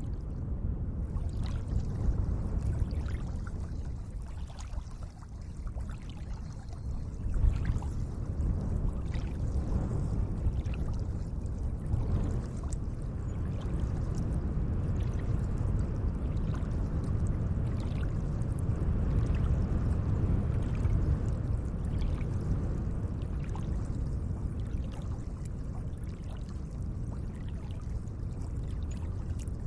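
Gentle lake water: a steady wash of moving water, heaviest in the low end, with small splashes and drips scattered through and one slightly louder splash about a quarter of the way in.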